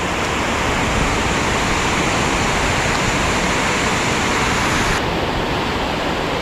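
Creek water rushing steadily over a riffle, a loud, even hiss that turns a little duller about five seconds in.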